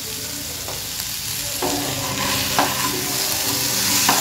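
Cubed potatoes frying in mustard oil in a pan, with a steady sizzle. From about a second and a half in, a wooden spatula scrapes and knocks them around the pan as they are stirred.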